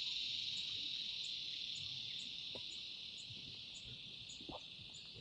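Insect chorus in the bush, a steady high buzz that slowly fades, with a faint regular ticking about twice a second above it.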